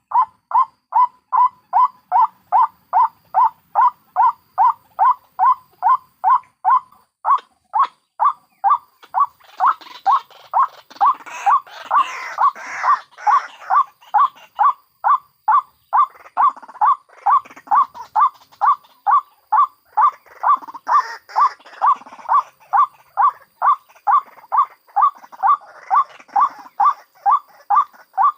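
White-breasted waterhens calling: a loud, pitched note repeated steadily about twice a second, with rougher, noisier calls layered over it from about ten seconds in until near the end. The track mixes the calls of adult birds and their chicks, used as a lure call.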